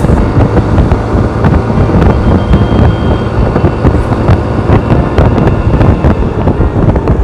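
Wind rushing over the microphone with the running noise of a moving two-wheeler on the road, loud and gusty.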